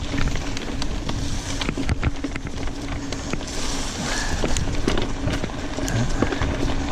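Mountain bike being ridden over a trail: a steady rumbling noise with a low hum, broken by frequent short clicks and rattles from the bike.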